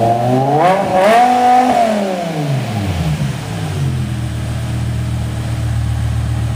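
BMW M6 engine through an SD Motorsports aftermarket exhaust, revved in a quick blip about a second in, then dropping back and settling into a steady idle from about halfway through.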